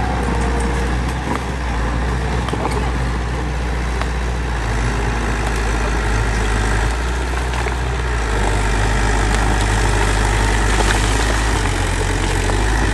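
Heavy diesel engine of earth-moving machinery running steadily with a deep low hum, getting a little louder about two-thirds of the way through, with scattered light clicks and knocks.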